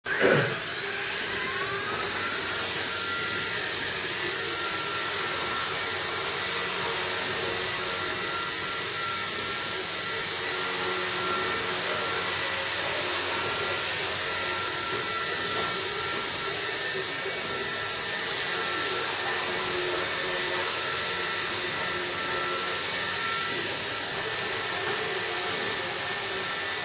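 Walkera 4G3 micro electric RC helicopter spooling up, its whine rising over the first couple of seconds, then running steadily with an even, high-pitched whirr of motor and rotor blades in flight.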